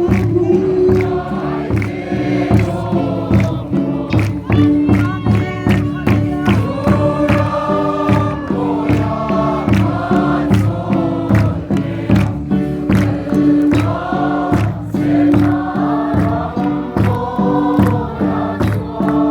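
A group of voices singing a gospel song together over a steady, regular beat.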